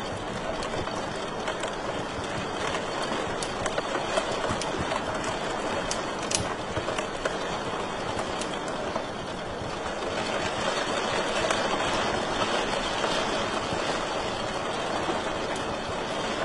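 Wood fire crackling in a fireplace: a steady rushing hiss with scattered sharp pops and snaps, one louder pop about six seconds in.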